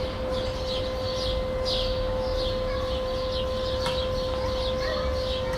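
Small birds chirping over and over, above a steady whining hum from a neighbour's vacuum cleaner, with a low rumble of distant traffic underneath.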